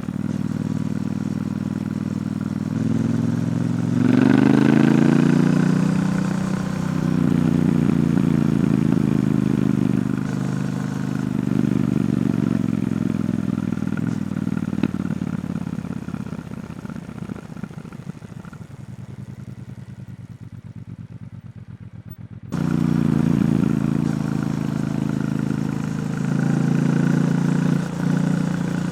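Triumph Bonneville T120's 1200 cc parallel-twin engine running through its stock exhaust while being ridden. It revs up about four seconds in and pulls steadily, then eases off to a low, quieter note. Near the end it comes back loud all at once.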